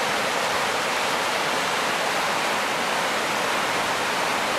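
Fast, high river water rushing steadily.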